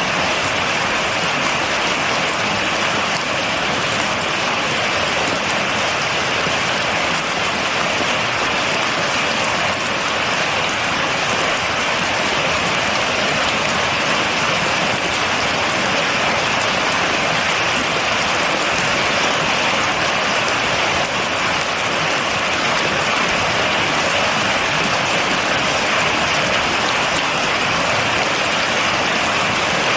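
Steady, heavy rain falling and pattering on a surface, an even hiss with no thunder.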